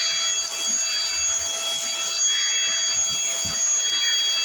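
Cordless stick vacuum cleaner running, a steady high motor whine over airflow hiss, with a few soft low bumps from the cleaner head.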